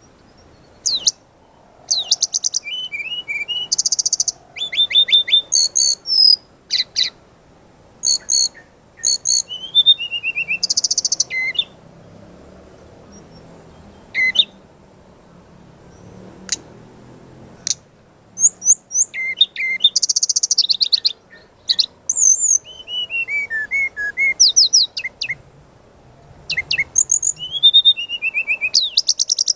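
Brown-chested jungle flycatcher (sikatan rimba dada coklat) singing loudly in bursts of rapid, fast-repeated high notes and short falling whistled phrases. Midway there is a pause of a few seconds broken only by a few single notes, before the song resumes.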